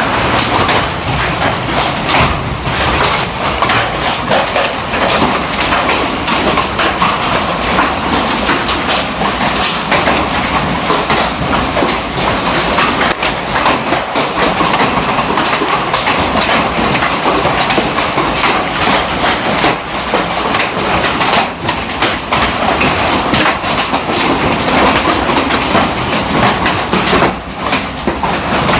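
Hailstorm: hailstones pelting down in a loud, dense clatter of many rapid impacts that keeps up steadily.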